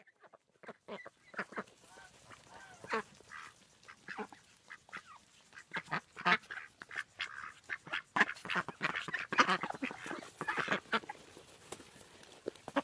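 A flock of domestic ducks quacking in short, overlapping calls, busier and louder in the second half as they crowd in to be fed.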